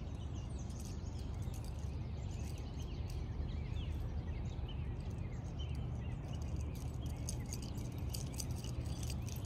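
Small birds chirping and calling, many short chirps throughout, over a steady low rumble, with scattered faint clicks that grow more frequent in the second half.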